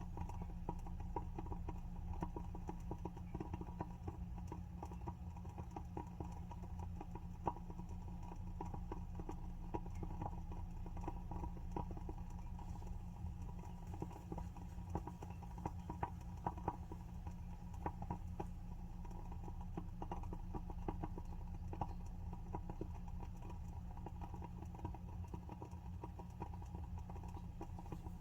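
Wooden wick of a WoodWick candle burning with a soft, irregular crackle of small pops, over a steady low hum.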